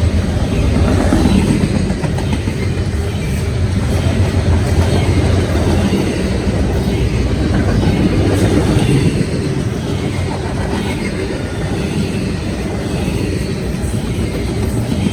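Southbound CSX freight train passing at speed close by: a steady loud rumble of cars rolling past, with wheels clicking over the rail joints.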